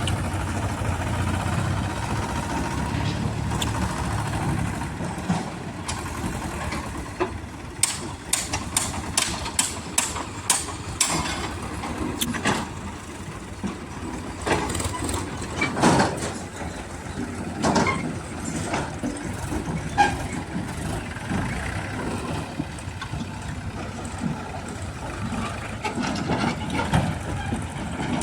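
Heavy diesel engine of a backhoe loader running steadily, with a quick run of sharp metallic clanks about a third of the way in and a few louder knocks later.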